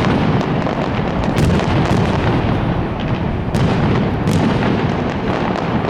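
Fireworks going off in a loud, continuous barrage of overlapping booms and sharp cracks, with no pause.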